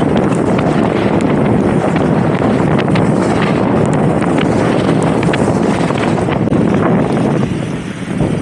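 Strong wind buffeting the microphone in a hailstorm, with many scattered sharp ticks of hail and rain striking. It eases slightly near the end.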